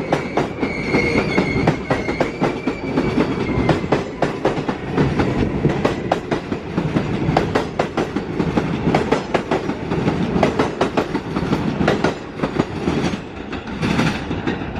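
New York City Subway L train running through on the rails, its wheels clattering in an irregular clickety-clack over a steady low rumble, with a faint high-pitched wheel squeal in the first few seconds.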